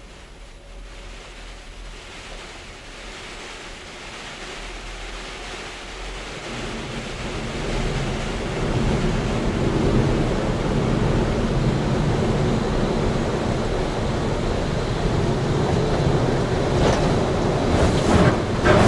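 Automatic truck wash machine spraying water on a large truck: a steady rushing that grows louder through the first half, joined about a third of the way in by a low hum.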